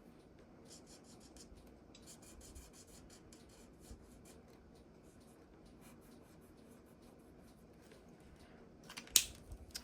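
Faint, quick strokes of a felt-tip alcohol marker's bullet tip rubbing on cardstock while colouring and blending. A sharper click comes near the end.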